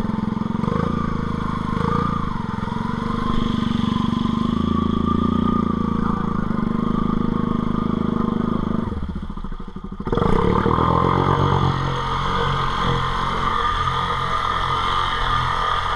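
ATV engine running under throttle in two-wheel drive, which the rider uses to pop a wheelie. The engine note drops away briefly about nine seconds in, then comes back louder about a second later with its pitch changing.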